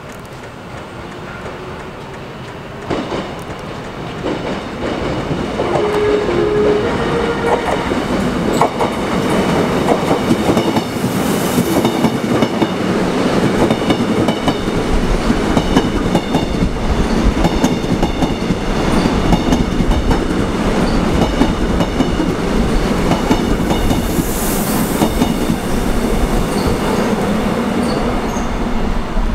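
Korail commuter electric train running past close by along the platform, with a loud rolling rumble and wheels clattering on the track, growing louder over the first few seconds. From about a third of the way in, a steady high squeal from the wheels or brakes sits over it.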